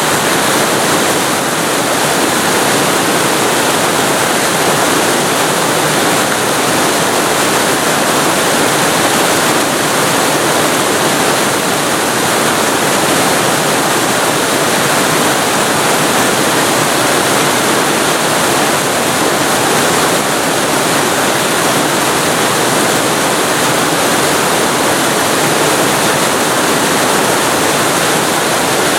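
Waterfall recorded very close to the falling water: a loud, steady, unbroken rush.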